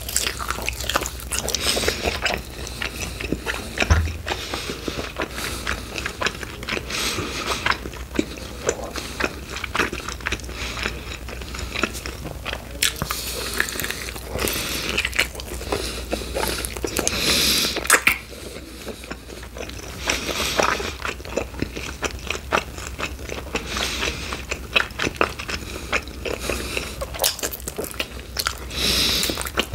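Close-miked eating of chicken wings: repeated biting and chewing, a dense run of small wet clicks with louder bursts every few seconds.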